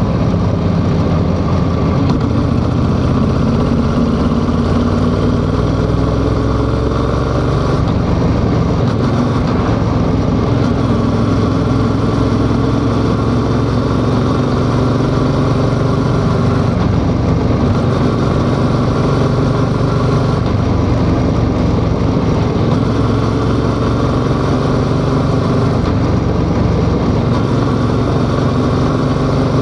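Yamaha XSR700's 689 cc parallel-twin engine running steadily while ridden, its pitch drifting up and down a little as the throttle and speed change.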